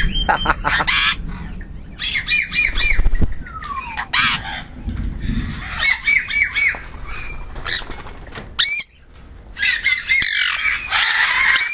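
Parrots squawking, many short harsh calls in quick runs, with a brief lull about nine seconds in.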